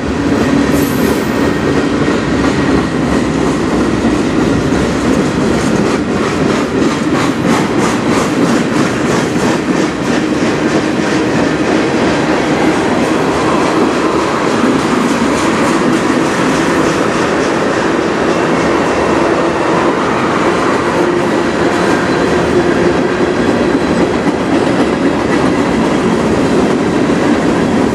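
A long freight train's cars rolling past close by: a steady rumble of steel wheels on the rails with clacking from the wheels, as tank cars and covered hoppers go by.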